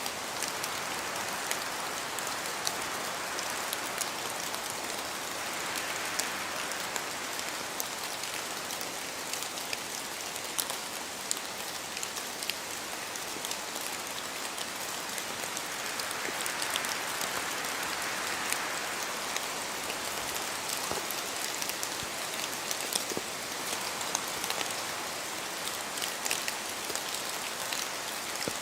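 Steady rain in a spruce forest, with countless drops pattering and dripping from the trees, and the wind through the branches swelling and easing a few times.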